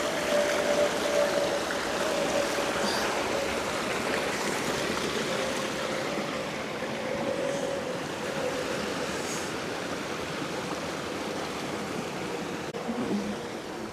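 Flowing stream water rushing steadily, with a steady tone underneath that slowly drifts lower in pitch.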